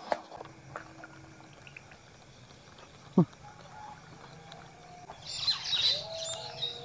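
Birds calling: a short falling call about three seconds in and a busy burst of high chirping near the end. A few sharp clicks come near the start.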